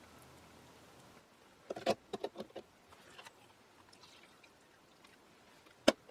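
Small hardware being handled on a workbench: a quick run of light clicks and knocks about two seconds in, then one sharp click near the end.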